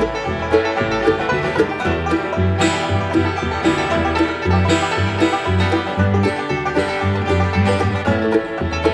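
Acoustic bluegrass band playing an instrumental passage: fast banjo picking over a steady, stepping bass line.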